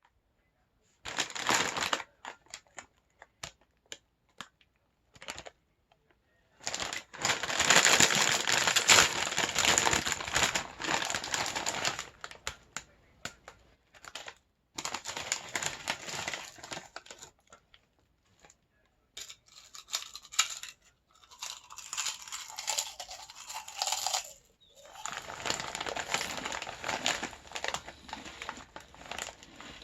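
Crinkly bag of BBQ potato chips being handled, crinkling and tearing in irregular bursts with short pauses. The loudest stretch is about a third of the way in.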